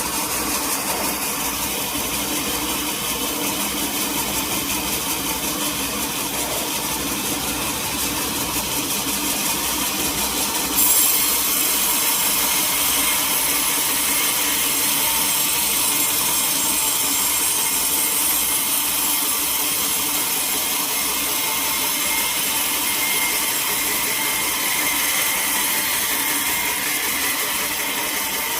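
Sawmill saw running steadily as it cuts through a teak log. About ten seconds in, the sound gets louder and a high hiss comes in and stays.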